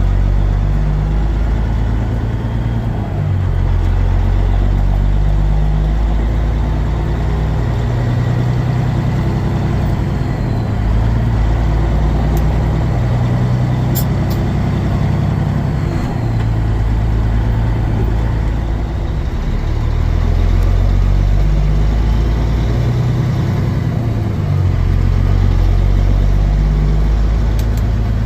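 Semi truck driving on the road heard from inside the cab: a steady heavy engine drone with road noise, its pitch shifting up and down every few seconds.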